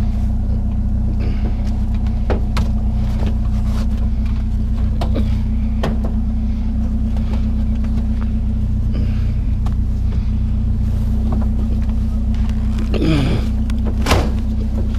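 Vehicle engine idling steadily, with scattered knocks and clanks from metal chairs being handled and loaded, a short squeak about thirteen seconds in and a louder knock just after.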